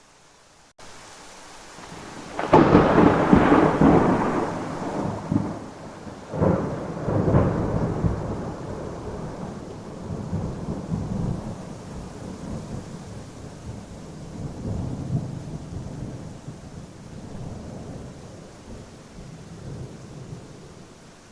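Thunder over steady rain: a loud clap of thunder about two and a half seconds in, a second double peal around six to seven seconds, then a long rumble that slowly fades.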